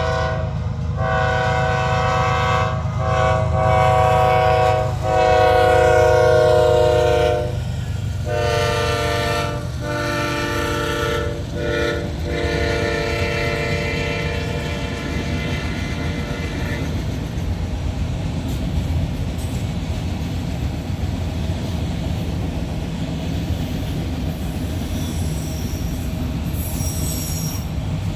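BNSF freight train's locomotive air horn sounding a series of blasts, the last one long, ending about two-thirds of the way through. After that the train rolls past slowly with a steady low rumble of wheels on rail and a brief high squeal near the end.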